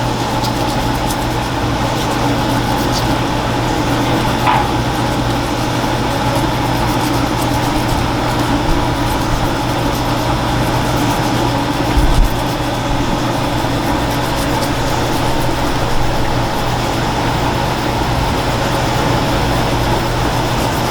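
Steady mechanical hum with a few light clicks and one dull thump about twelve seconds in.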